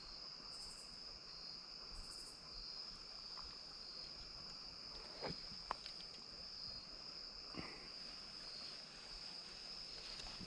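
Crickets trilling steadily at dusk, with a higher insect buzz repeating a few times in the first couple of seconds. A few faint short clicks come about halfway through.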